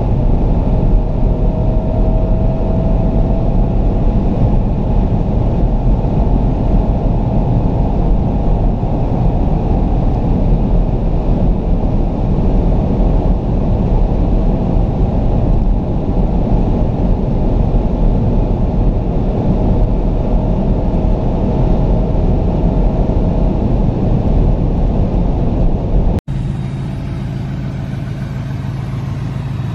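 Inside the cabin of a 2017 Porsche Panamera Turbo at full throttle above 230 km/h: the 4.0-litre twin-turbo V8 pulls hard at high revs under heavy wind and tyre roar, shifting up once from fifth to sixth. About 26 seconds in the sound cuts off suddenly to a quieter, steady low hum.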